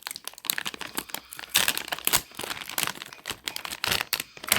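A plastic chip bag crinkling as it is handled, with a dense run of irregular crackles.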